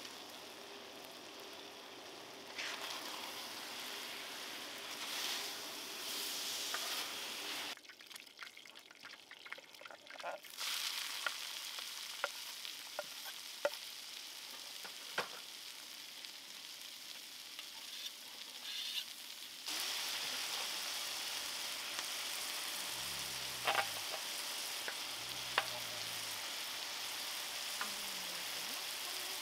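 Marinated meat, then onions and peppers, sizzling on a hot skottle disc griddle, with a few sharp clicks and scrapes of a spatula on the steel. The sizzle steps quieter and louder a few times and is loudest from about twenty seconds in.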